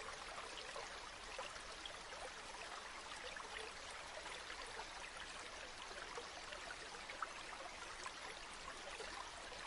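Flowing river water running steadily, with a fine babbling of many small splashes.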